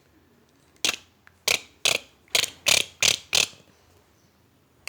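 A run of about seven short, sharp mechanical clacks, roughly two to three a second, between about a second and three and a half seconds in: cartoon sound effects.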